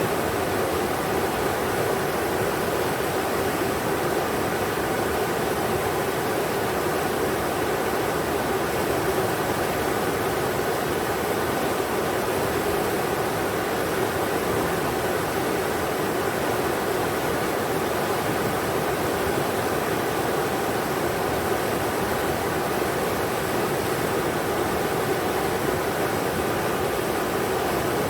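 River water rushing over rocks in a steady, unbroken roar of white noise.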